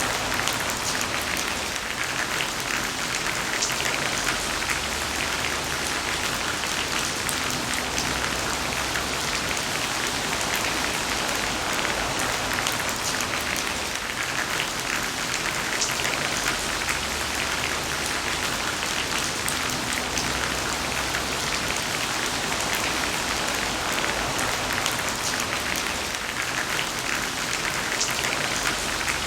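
Heavy rain falling steadily on surfaces, a dense even hiss full of individual drop splashes.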